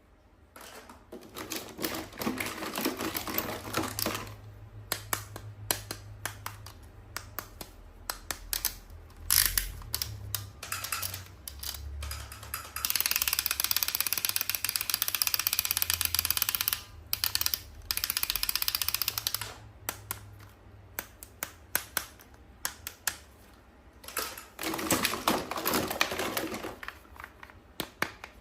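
Close-up handling of toy packaging: many quick clicks and taps, with two stretches of crinkling and rustling around halfway through and a softer rustle near the end.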